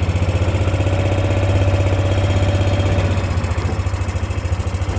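A vehicle engine running steadily at low speed, with a rapid, even pulse.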